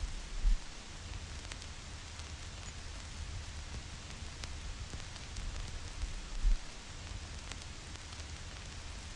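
Vinyl record surface noise: a steady hiss with scattered crackles and pops as the stylus tracks dust and wear in the groove. Two low thumps stand out, about half a second in and again about six seconds later.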